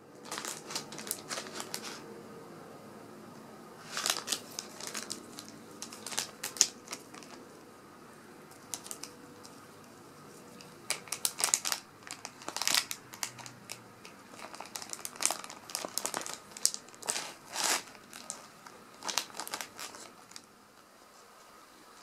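Plastic cat-treat pouch crinkling as it is handled and opened by hand, in irregular bursts.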